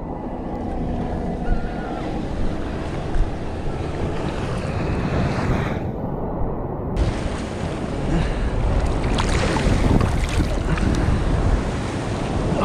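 Sea waves washing, with wind gusting across the microphone.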